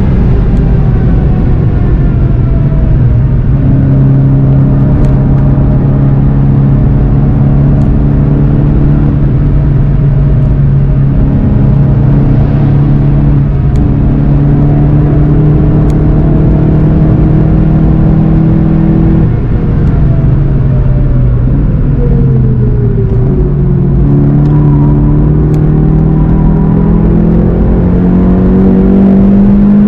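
In-car sound of a VW Golf 7 GTI TCR's turbocharged four-cylinder engine at speed on track, with road and tyre noise underneath. The engine note holds fairly steady for a long stretch, drops over a few seconds as the car slows for a corner, then climbs again as it accelerates out.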